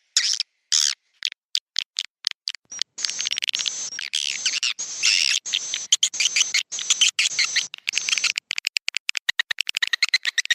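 Swiftlet roosting-call recording of the kind played in swiftlet houses to draw birds in to nest: short squeaky chirps, then a dense twittering chatter, then a fast even run of short chirps near the end.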